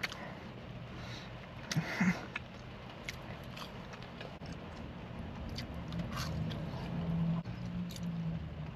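A person chewing food with the mouth close to the microphone, soft wet munching with a couple of brief louder sounds about two seconds in. A low steady hum runs underneath.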